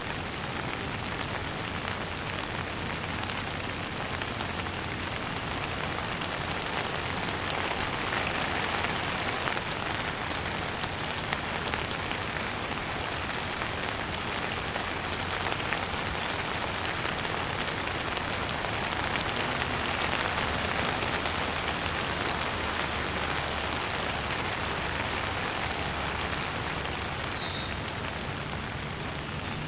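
Steady gentle rain, an even hiss of many small drops pattering, swelling slightly a couple of times.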